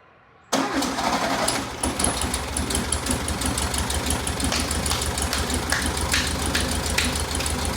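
The 1973 VW Beetle's air-cooled flat-four engine comes in abruptly about half a second in and runs steadily with a fast, even pulse.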